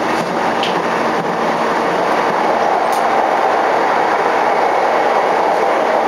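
Running noise inside a motor car of a JR East E233-5000 series electric train at speed: a steady rumble of wheels on rail, growing slightly louder about two seconds in.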